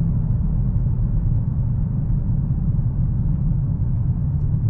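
Cabin noise of a 2022 Dodge Challenger Hellcat on the move: a steady low rumble from its supercharged 6.2-litre V8 and the tyres on the road.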